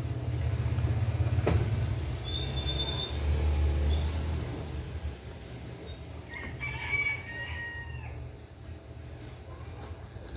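A low rumble in the first few seconds, then a bird calling once for about a second and a half, around seven seconds in.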